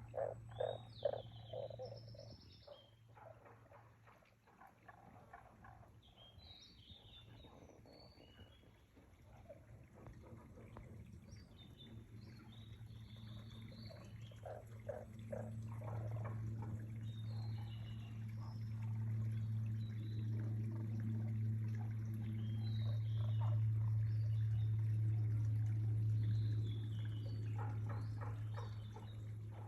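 Frogs croaking in short pulsed bursts, repeated every few seconds, with small birds chirping over them and a steady low drone that grows louder through the second half.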